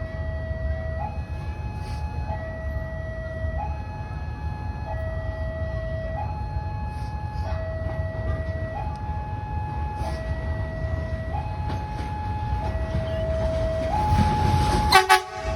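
Railway level-crossing warning alarm sounding its alternating two-tone signal, low and high notes swapping about every 0.7 seconds, which warns that a train is approaching. A steady low rumble runs underneath, with a sharp knock near the end.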